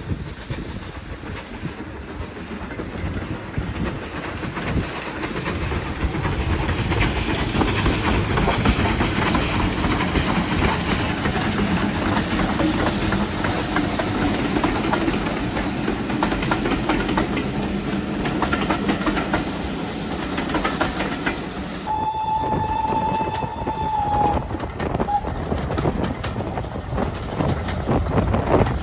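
A train running on the rails, its rumble and wheel clatter growing louder over the first several seconds. Later a train whistle sounds one steady note for about two seconds, then gives a brief second toot.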